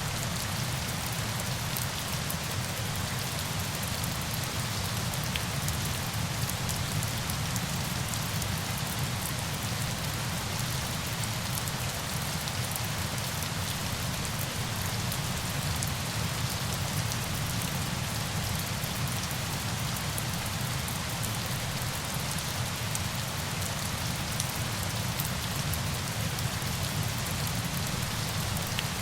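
Steady rain falling on surfaces, an even hiss with the fine patter of individual drops, unchanging throughout.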